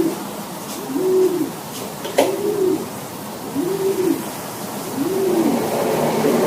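Domestic pigeon cooing: low, rising-and-falling coos repeated about every second and a half. A single sharp click sounds just after two seconds in.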